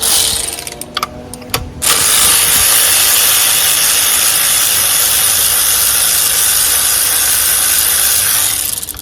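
A short burst of hiss and a few sharp clicks, then a steady, loud hiss of pressurised gas or spray for about seven seconds that stops near the end.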